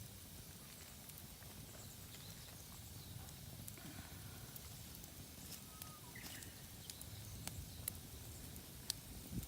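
Campfire of damp, poorly burning firewood in a mesh fire stand, with a low steady rumble and scattered sharp crackles and pops, a few louder pops near the end.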